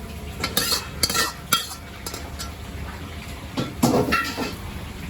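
Metal cookware and utensils clinking and knocking in a restaurant kitchen: a quick run of sharp clinks in the first second and a half, then another cluster a little under four seconds in, over a steady low kitchen hum.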